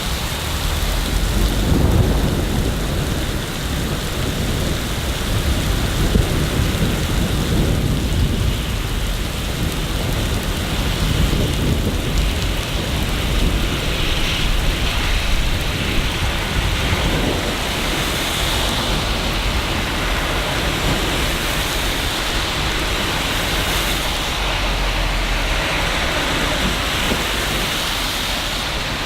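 Steady rain falling in a city, an even hiss with a low rumble underneath that swells about two seconds in and rises and falls at times after.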